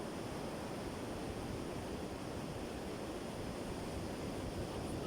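Steady wash of sea surf with wind on the microphone.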